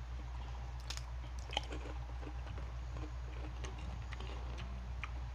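Crunching and chewing of crisp chicharon (deep-fried pork rinds) eaten by hand, a scatter of short crisp crunches with the sharpest about a second and a half in, over a steady low hum.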